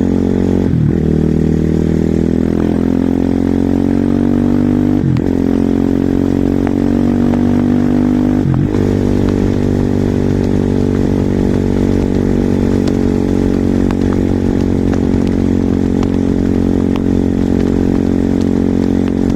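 Husqvarna SMR 450 supermoto's single-cylinder four-stroke engine pulling hard under acceleration, shifting up three times, about a second, five seconds and eight and a half seconds in, with the revs climbing between shifts. After the last shift it runs at fairly steady revs.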